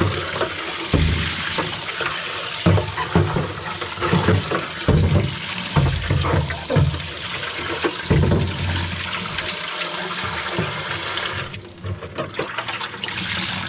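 Tap water running into a plastic dehumidifier bucket in a sink, with sloshing and scattered low thumps as the bucket is handled. The water stops about 11 seconds in, then runs again briefly near the end.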